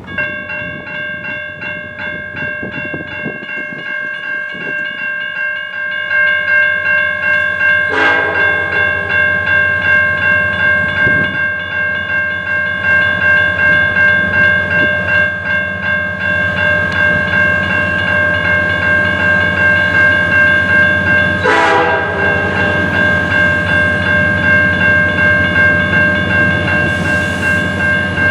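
CN freight train's air horn sounding one long held chord while the train rolls past. The wheels clatter in an even rhythm, the rumble growing louder about six seconds in.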